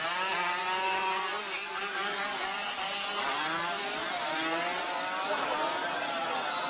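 Motorcycle engines running and revving, with pitches that waver up and down.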